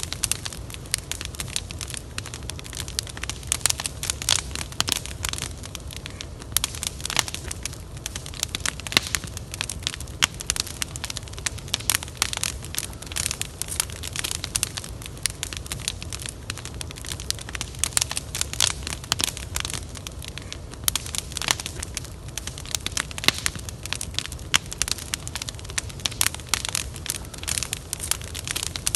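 Wood fire crackling, with frequent irregular pops and snaps over a low steady rumble.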